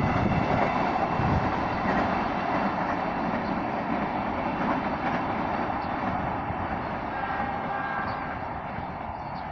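Freight train rolling past, a continuous rumble of wheels on rail that slowly fades as it moves away.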